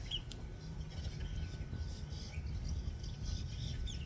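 Small birds chirping in short, quick falling notes over a steady low rumble, with a faint steady hum underneath and a single click about a third of a second in.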